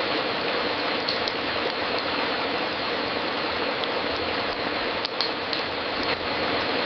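Fireplace fire crackling: a steady hiss with a few sharp pops, several of them close together about five seconds in.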